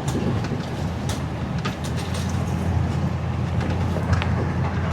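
Pickup truck driving slowly on a rough dirt back-country road, heard from inside the cab: a steady low engine and road rumble with scattered knocks and rattles.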